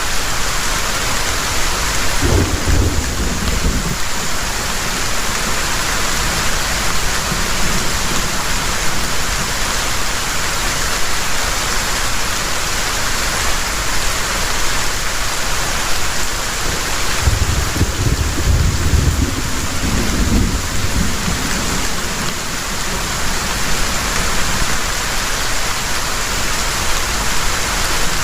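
Heavy rain pouring steadily, with two low rolls of thunder: a short one about two seconds in and a longer one rumbling for several seconds past the middle.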